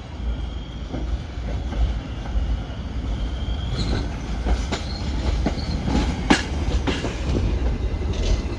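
New York City subway train running on the Brighton Line: a steady low rumble with a faint high wheel squeal, then, from about four seconds in, a run of sharp clicks and knocks as the wheels cross rail joints.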